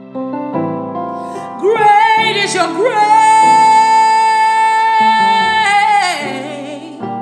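Music with a woman singing over keyboard chords, holding one long high note through the middle before it falls away.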